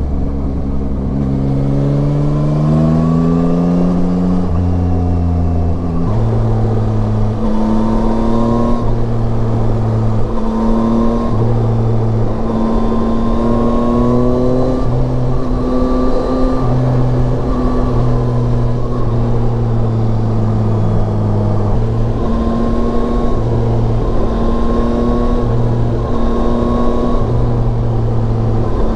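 Yamaha Tracer 9's inline three-cylinder engine under way. Its revs climb over the first few seconds, then hold fairly steady with small rises and dips in pitch, over a steady rush of wind and road noise.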